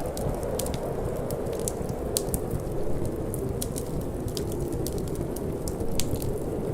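Wood fire crackling in a fireplace, with irregular sharp snaps and pops over a steady low rush of wind and flame.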